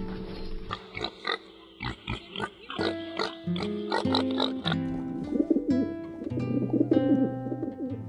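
Background music with piglets grunting and squealing over it.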